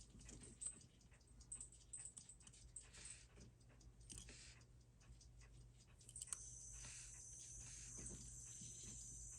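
Faint small clicks of watchmaker's tools, then a sharp click about six seconds in and a faint, steady, very high whine: the Seiko 6R15 movement's wheel train spinning freely, with the escape wheel whirring, because the pallet fork has been pulled and the mainspring is letting down unchecked.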